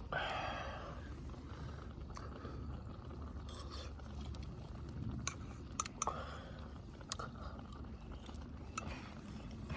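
Utensils and tableware clinking lightly, a few scattered sharp clicks over a steady low background noise.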